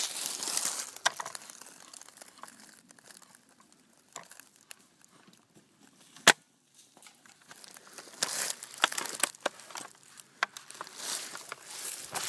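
Crunching and rustling of dry leaves and brush underfoot, with two sharp cracks about six seconds apart, the second the loudest.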